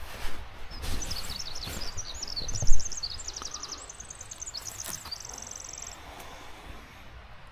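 A songbird singing a quick run of high chirps and warbled notes, ending in a fast even trill about five seconds in. Under it a low rumble with a few knocks, the loudest a thump a little before the middle.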